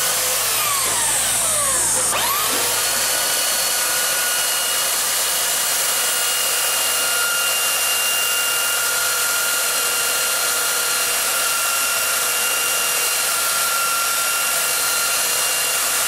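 Power drill/driver motor running with a steady high whine while hardware is being removed. About two seconds in, the pitch drops and then climbs back up as the motor slows and speeds up again.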